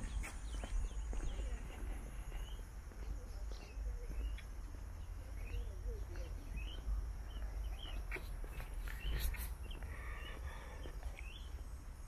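Small birds calling in short, scattered chirps, over a steady low rumble.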